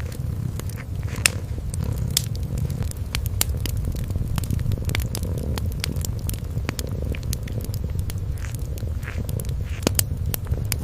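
Kitten purring as a low, steady rumble, overlaid with frequent, irregular sharp crackles from a wood fire.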